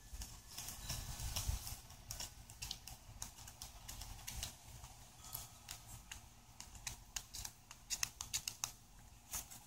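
Irregular light clicks and taps of fingers pressing and smoothing a tempered-glass screen protector onto a phone's screen, working from the center towards the edges to push out air bubbles, with quick runs of clicks near the end.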